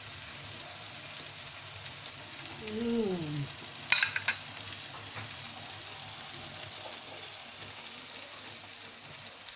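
A steady sizzling hiss with a short falling "mmm" of enjoyment about three seconds in, then a sharp ringing clink of cutlery against a dish just after, the loudest sound here.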